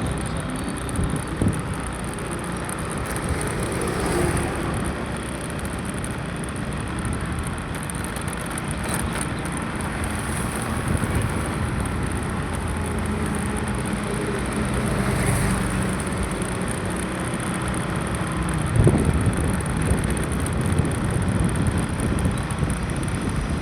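Steady road vehicle noise, a continuous low rumble, from a scooter riding in traffic. There is a short louder swell about nineteen seconds in.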